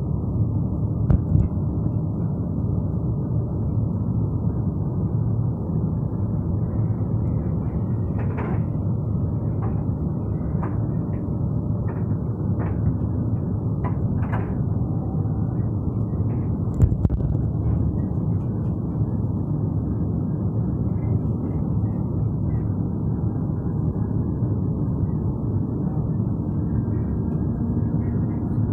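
Inside a passenger train carriage: a steady low rumble from the train, with a run of short sharp clicks in the middle and one louder knock a little later.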